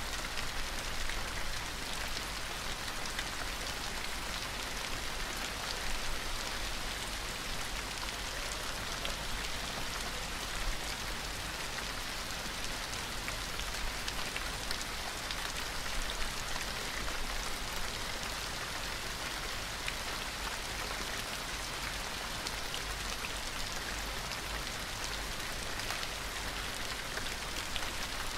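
Steady gentle rain falling, an even hiss with the patter of individual drops scattered through it.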